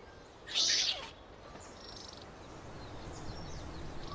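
A short, high-pitched animal call about half a second in, followed by fainter high chirping calls over a quiet outdoor background.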